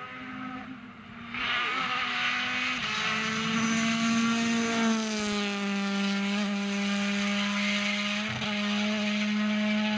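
Rally car engine held at high revs, growing much louder about a second and a half in, with a slight drop in pitch about five seconds in.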